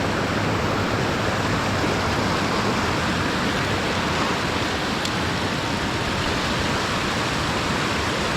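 Water pouring over a creek spillway: a steady, unbroken rush.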